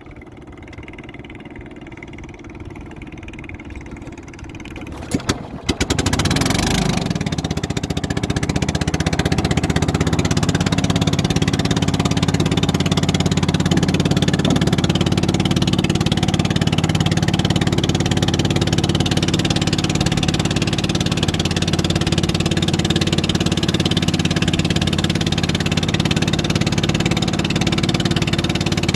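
A motorboat engine, quiet at first, then after a few sharp clicks about six seconds in it starts running loud and steady, close by.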